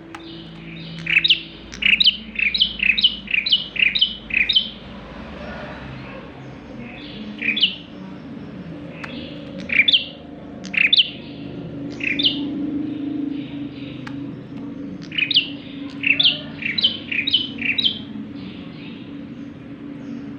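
A prinia singing: quick runs of sharp, falling notes, several a second, in three spells with single notes in between. A faint low hum lies underneath.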